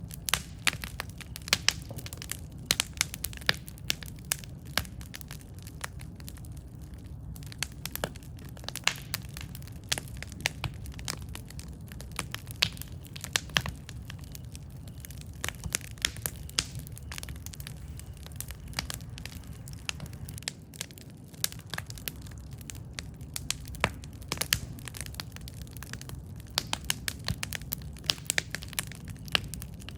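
Campfire burning with irregular, sharp crackles and pops over a steady low rumble of flames.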